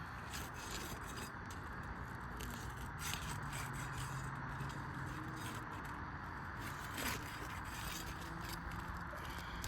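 Scraping and crackling with scattered small clicks as a roof shingle is worked on by hand for its repair, over a steady background hiss.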